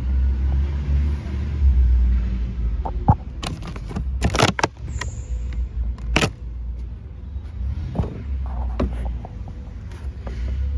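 Truck engine idling with a low, steady rumble. A handful of sharp knocks and clatters come between about three and nine seconds in, the loudest around the middle.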